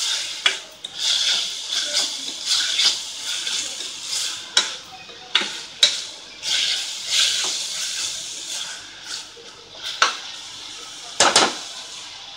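A metal spoon stirs grated carrot frying in oil in a stainless steel kadai: sizzling that swells and fades as the food is turned, with scraping and repeated sharp taps of the spoon against the pan. The loudest tap comes about eleven seconds in.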